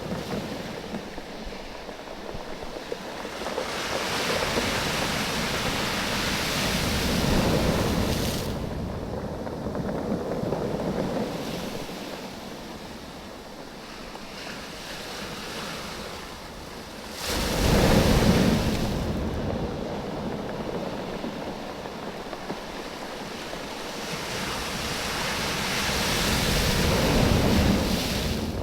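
Waves washing in and out over a beach of rounded oval stones, the stones knocking and rolling against each other as the water pulls back. The surf comes in slow surges, with one sudden, louder wave about 17 seconds in.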